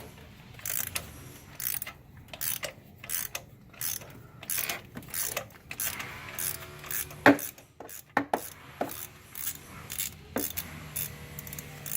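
Socket ratchet on a long extension clicking in repeated back-and-forth strokes, about one to two a second, as it cranks a spark plug loose, with one sharper knock about seven seconds in.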